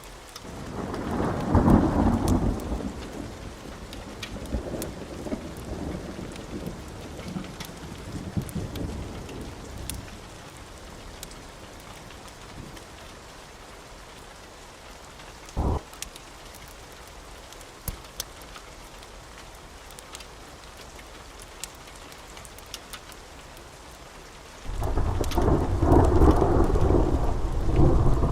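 Wood fire crackling with scattered small pops. Two long, deep rumbles rise over it, one swelling at the start and fading over several seconds, the other coming in loud near the end. A single sharp knock lands about halfway through.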